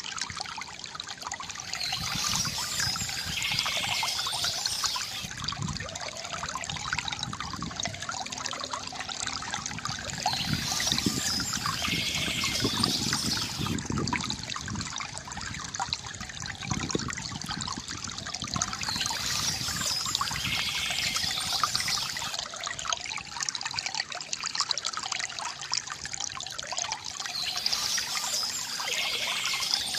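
Small stream flowing and trickling steadily, with a songbird's phrase recurring about every eight or nine seconds.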